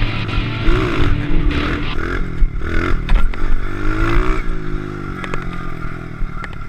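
A 110cc pit bike engine being ridden, its pitch rising and falling several times as the throttle is opened and closed, over low wind rumble on the microphone. A few sharp clicks near the end.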